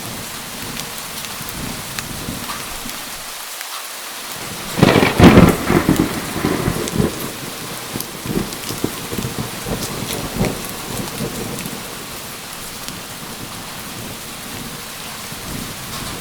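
Steady heavy rain with a loud crack of thunder about five seconds in, rumbling on and fading over the next several seconds.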